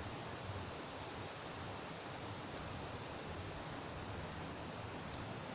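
Steady outdoor ambience: an even hiss with a continuous high-pitched insect drone, like crickets or cicadas.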